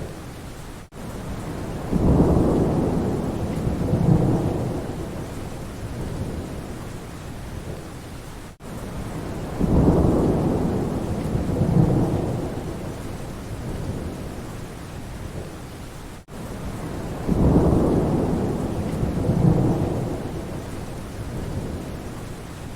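Steady rain with rolling thunder: three low rumbles, each swelling twice, about every eight seconds, with a brief cut-out just before each, the pattern of a short looped recording.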